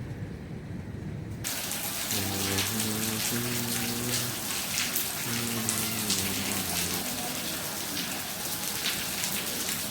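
Heavy rain falling, a dense hiss full of drop patter that starts abruptly about a second and a half in. In the middle, a low pitched sound holds a few stepped notes in two short phrases.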